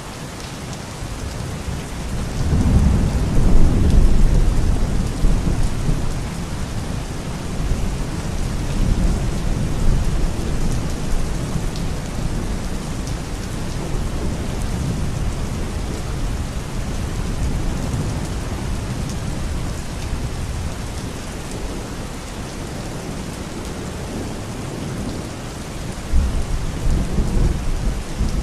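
Steady heavy rain with rolling thunder. A long low rumble builds about two seconds in, peaks soon after and dies away slowly, and another rumble starts near the end.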